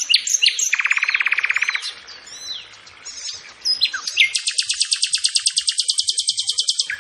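Songbirds chirping and singing, with quick sweeping chirp notes. A fast trill about a second in is followed by a longer, higher, rapidly pulsing trill that starts about four seconds in and carries on.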